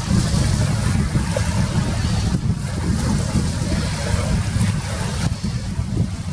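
Wind buffeting the camera's microphone: a loud, gusty low rumble with a hiss over it.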